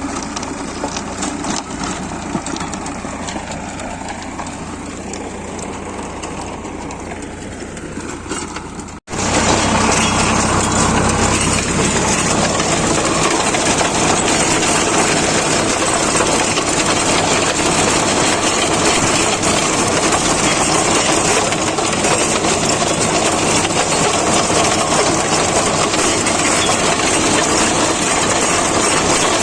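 Sonalika 745 DI tractor's diesel engine running steadily. About nine seconds in the sound cuts out for an instant, then comes back louder and rougher, with much more noise across the range.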